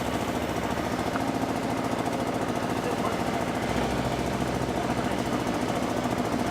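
Komatsu excavator's diesel engine running steadily, with a fast even pulse.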